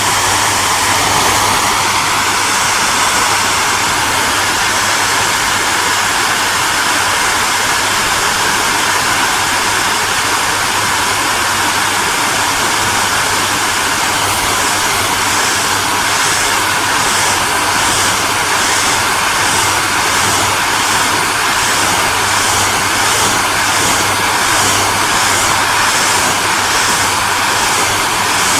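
Hair dryer running steadily: a constant rush of blown air over a low motor hum. From about halfway through, the upper hiss pulses faintly at an even rate, a little more than once a second.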